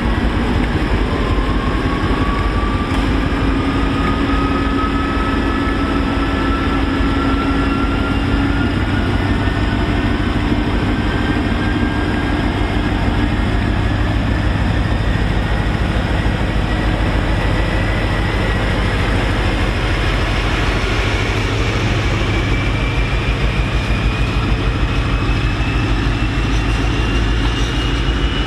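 Class 56 diesel locomotive running light engine, its Ruston-Paxman V16 diesel working with a deep steady throb, a good old racket. A whine rises steadily in pitch throughout as the locomotive gathers speed.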